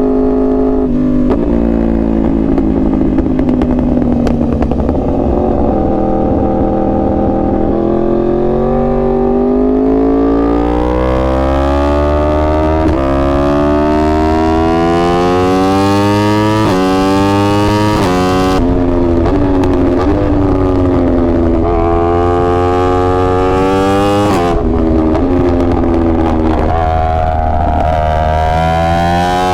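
2021 Yamaha R1's crossplane inline-four at full throttle, its pitch climbing through the revs and dropping sharply at each upshift, several times over. It eases off with a falling pitch in the first few seconds, then pulls hard through the gears.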